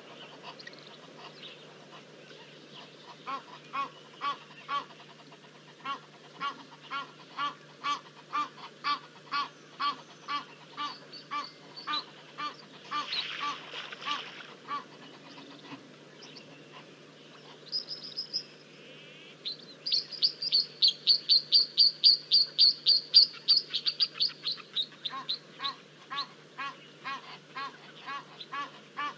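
Birds honking in long runs of repeated calls, about two a second, with a louder, higher-pitched run of calls in the second half.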